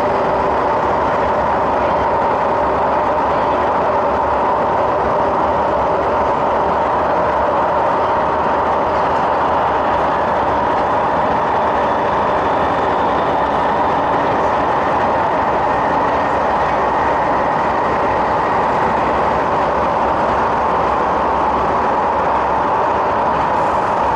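Steady running noise heard inside the passenger car of an MTR MLR (Metro-Cammell) electric train in motion: an even rumble of wheels on rail with a constant hum of several steady tones from the running gear.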